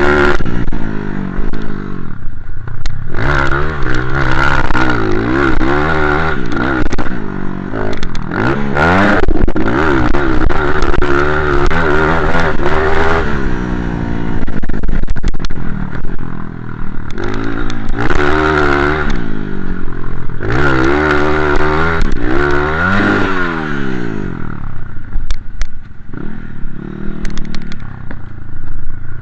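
Motocross bike engine revving hard and easing off again and again as it is ridden, the pitch climbing and dropping with each burst of throttle. Sharp clattering knocks are scattered through it.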